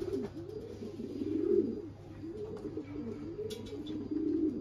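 Several racing pigeons cooing, their low, rising-and-falling coos overlapping continuously.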